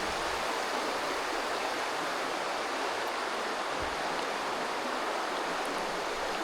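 Steady, even rush of running water, with one faint low thump about four seconds in.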